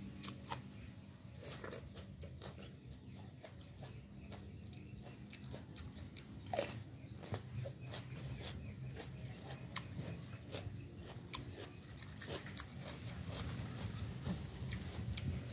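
A person chewing a mouthful of Thai-style rice-vermicelli and green papaya salad, with small, irregular wet mouth clicks.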